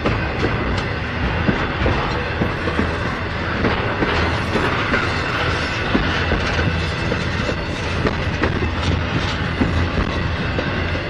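Freight train cars rolling steadily past, with a continuous rumble and frequent clicks of wheels over rail joints.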